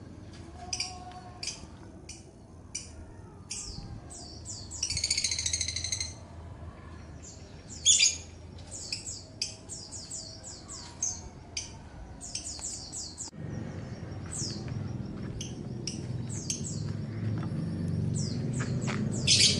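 Small caged songbirds chirping over and over in short high calls, with a longer buzzy chatter about five seconds in and a loud call around eight seconds. A low steady rumble comes in about two-thirds of the way through.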